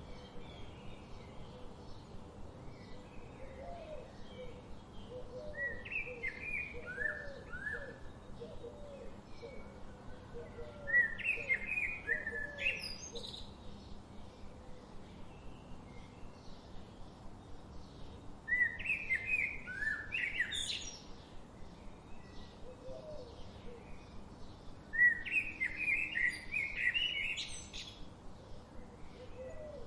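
Songbirds singing outdoors: a bird gives a loud, quick phrase of varied notes, ending in high rising notes, four times, about every six to seven seconds, over fainter, lower repeated chirps.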